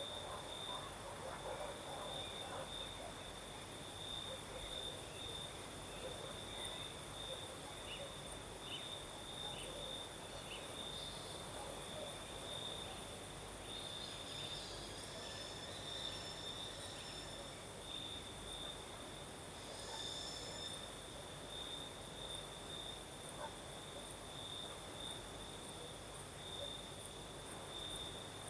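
Crickets singing: a steady, pulsing high chirr that does not let up, with a fainter, higher insect hiss above it.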